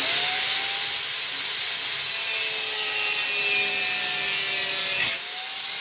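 Electric power tool cutting through steel, a loud continuous grinding hiss with a faint motor whine that sags slightly under load, stopping suddenly about five seconds in.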